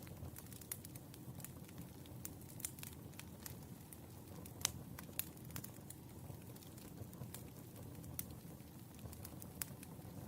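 Burning firewood crackling: irregular sharp pops and snaps over a low, steady background, with one louder pop about four and a half seconds in.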